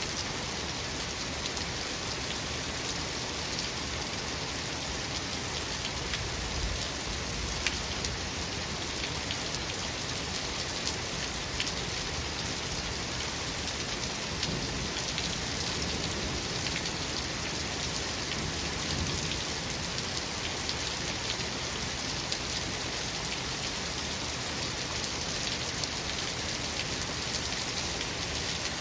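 Steady heavy rain falling, with scattered sharper taps of individual drops. Low rumbles of distant thunder swell up now and then.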